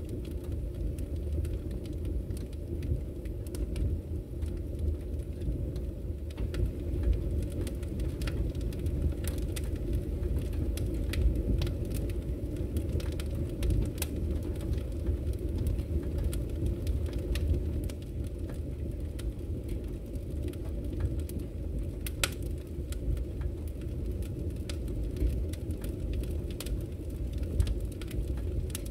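Wood fire in a fireplace crackling: a steady low rumble of burning with scattered sharp pops and snaps, a few of them louder.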